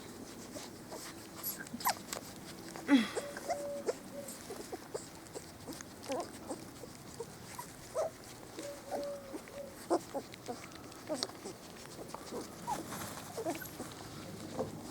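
Four-week-old Spanish Water Dog puppies whimpering and squeaking in short, scattered cries, with one louder, falling cry about three seconds in.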